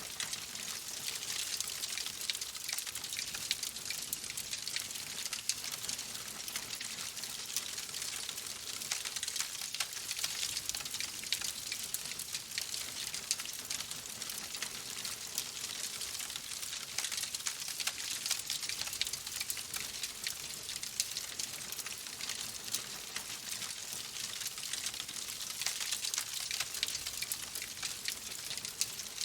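Wood fire crackling in a fireplace: a steady hiss with many small, quick pops and snaps.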